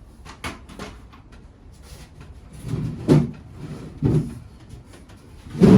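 Scattered light knocks and clicks of a heavy piece being handled, with two louder bumps about three and four seconds in.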